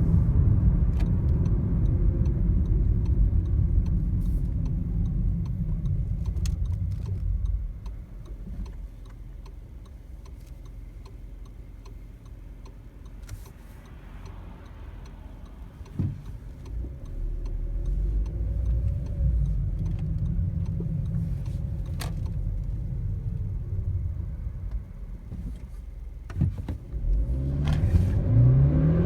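Audi A1's 1.4 TFSI turbocharged four-cylinder petrol engine and the car's low rumble as it drives slowly, settling much quieter for several seconds in the middle, with scattered sharp clicks. Near the end the engine revs rise as the car starts pulling away under hard acceleration.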